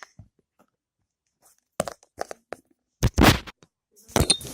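Slime being handled: a few small clicks and crackles, then a louder squish about three seconds in and another sharp crackle near the end.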